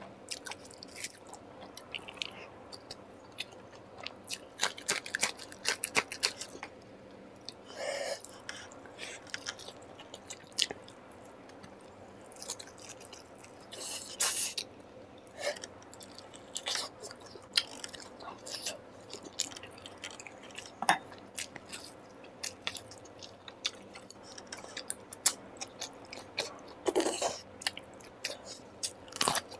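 Close-up mukbang eating: a person chewing and biting, with irregular wet mouth clicks and occasional crunches.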